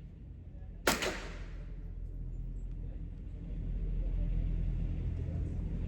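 A single gunshot about a second in, sharp, with a short ring-out, over a steady low rumble that grows louder a little past halfway.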